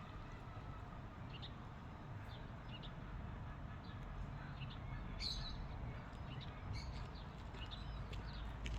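Small birds chirping in short, scattered calls, one louder chirp about five seconds in, over a steady low background rumble.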